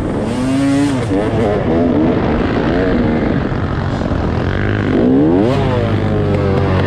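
Dirt bike engine being ridden hard, revving up and dropping back repeatedly as the rider works the throttle and gears, with a sharp climb in pitch about five seconds in.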